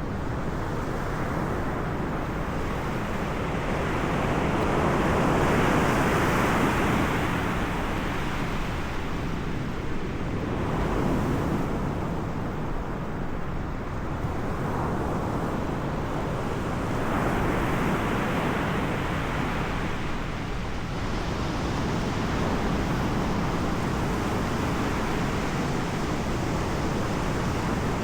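Sea surf, waves breaking and washing in swells every few seconds, with wind rumbling on the microphone.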